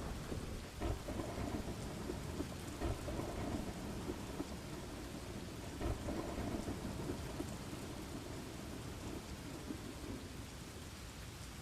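Rain falling steadily with low, rolling thunder rumbling beneath it: a thunderstorm ambience track.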